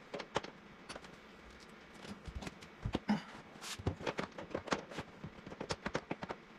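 Irregular clicks, knocks and light clatter of hand tools and metal parts being handled while working inside a car's interior, busier from about two seconds in.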